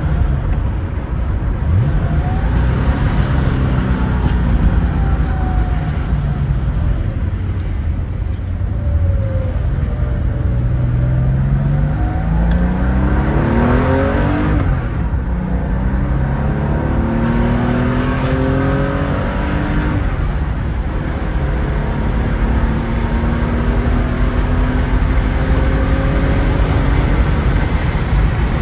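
1975 Porsche 911S's air-cooled 2.7-litre flat-six engine under way, pulling up through the gears: its pitch climbs and drops back at each shift, several times over, over steady road noise.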